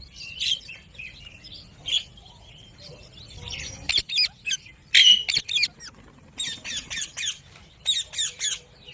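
Indian ringneck parakeet squawking and chirping in short, high calls, scattered at first, then in quick runs of calls over the second half.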